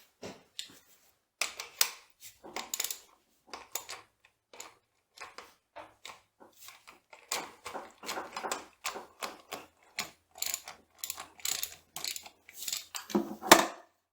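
Irregular metallic clicks and clanks of hand tools against steel machine parts as a gear shaft assembly is worked apart, with a louder clank near the end.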